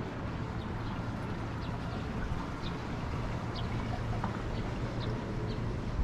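Strong wind buffeting the microphone as a steady low rumble, with faint short bird chirps scattered through it.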